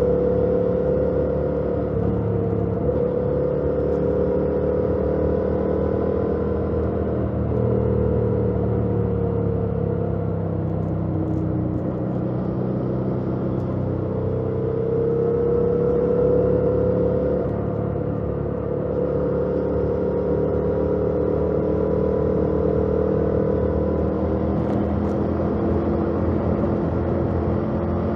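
A 2018 Yamaha MT-07's 689 cc parallel-twin engine on its stock exhaust, running steadily under way, its pitch easing down and rising again a few times.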